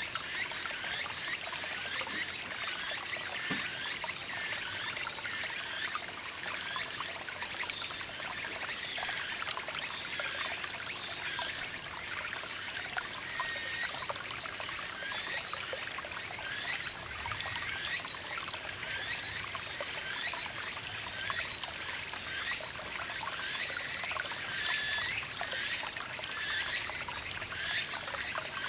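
Small mountain stream babbling over rocks: a steady rush of water with frequent little gurgles and plinks.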